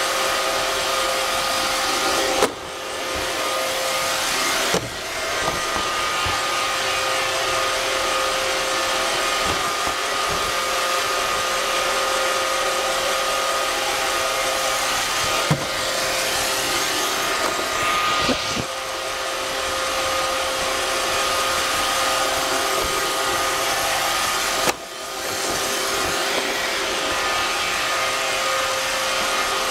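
iRobot Roomba 550 robot vacuum running, its motor giving a steady whine, heard from on board the robot. About five sharp knocks come at irregular moments, each followed by a brief dip in the hum.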